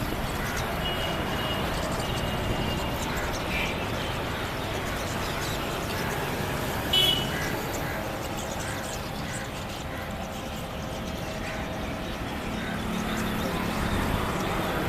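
Steady background of distant road traffic with a few short, high-pitched bird chirps over it. The sharpest and loudest chirp comes about seven seconds in.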